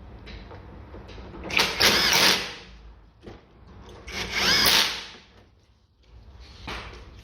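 Handheld power tool run in two bursts of about a second each, a couple of seconds apart, its pitch wavering as it spins.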